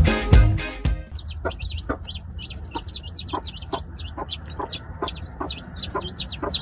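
Birds calling: a rapid run of short, high chirps, with lower short calls at a steady pace about twice a second. A burst of drum music ends about a second in.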